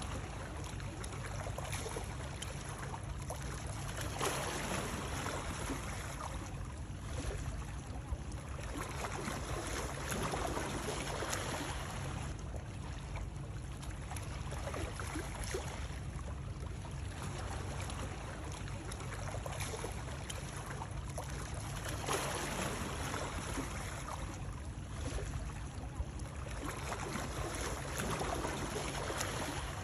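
Water flowing in a steady rush over a constant low rumble, swelling and easing gently every few seconds.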